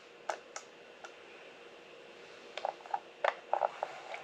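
Computer mouse clicking: a few single clicks in the first second, then a quicker run of clicks and light taps about three seconds in.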